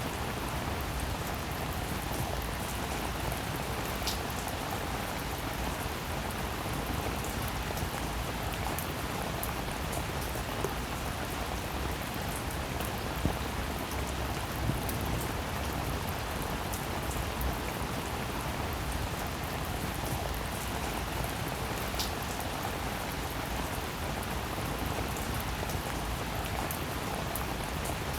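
Steady rainfall, a dense even hiss of rain with scattered individual drop ticks and a few louder drips.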